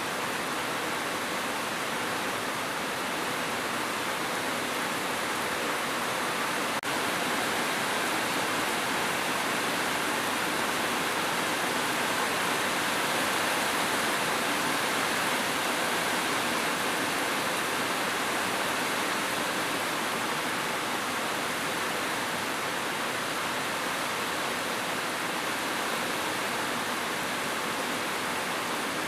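Steady, dense rainfall: an even, unbroken hiss of rain, with one tiny break about seven seconds in.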